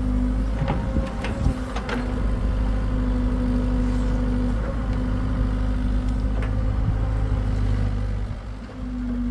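Hitachi excavator's diesel engine running steadily, with a whine over it that breaks off briefly twice, and a few sharp knocks and clanks, most of them in the first two seconds.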